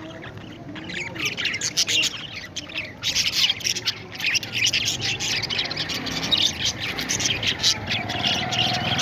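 Parrots chirping and chattering, with many short, high calls overlapping that grow busier about three seconds in.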